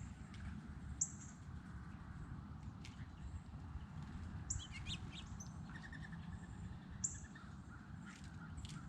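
Small birds calling with short, high chirps, and a quick run of repeated notes about six seconds in, over a steady low outdoor rumble.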